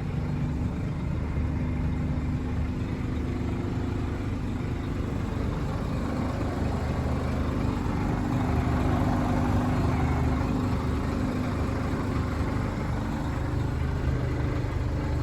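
Scania R460 truck's diesel engine idling steadily.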